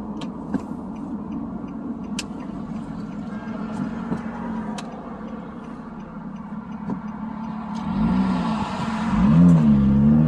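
Nissan Maxima's 3.5-litre V6 through a custom exhaust, cruising at low revs, heard with the windows down. About eight seconds in the exhaust note gets louder as the car accelerates, its pitch rising and dipping twice before settling into a louder steady drone.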